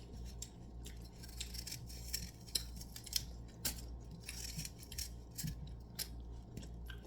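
Scattered light clicks and short rustles, as of small objects being handled, over a low steady hum.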